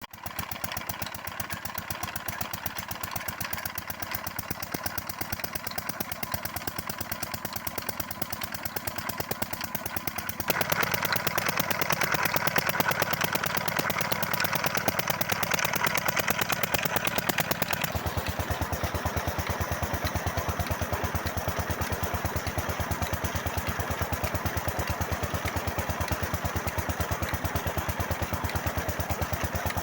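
18 HP diesel engine running steadily, driving a tube-well water pump, with a fast, even knock from its firing. It gets louder and brighter about ten seconds in and changes tone again around the middle.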